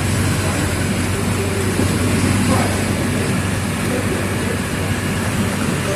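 Mercedes-Benz OF 1722M city bus engine running steadily under way, a constant low hum with road and body noise.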